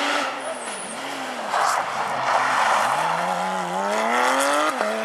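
Porsche rally car's flat-six engine at racing speed. The revs dip and climb over the first second, a rush of noise comes about a second and a half in, then the engine revs up hard under acceleration, with a quick upshift near the end before it climbs again.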